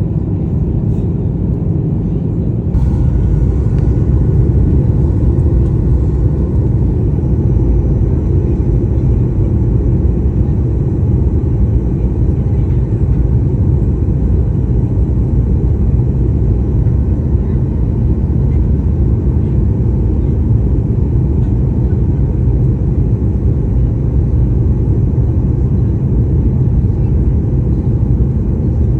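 Steady low rumble of a Boeing 737-800 airliner's cabin noise in flight on the landing approach, from its engines and the airflow. About three seconds in there is a brief sharp sound, and the rumble grows slightly louder after it.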